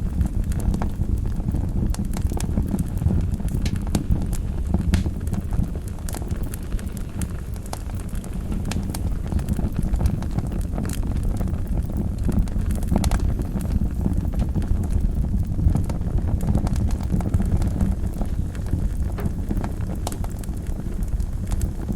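Wood fire burning in a fireplace: a steady low rumble of flames with frequent irregular crackles and snapping pops.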